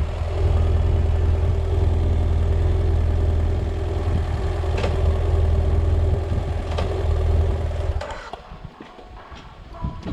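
BMW F800GS motorcycle's parallel-twin engine idling steadily, then stopping suddenly about eight seconds in, followed by a few light clicks and knocks.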